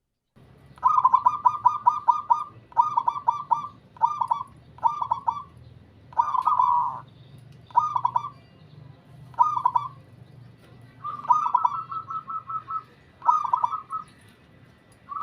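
Local zebra dove (perkutut) singing: groups of rapid, clipped cooing notes repeated with short pauses between them. The song starts about half a second in, over a faint steady low hum.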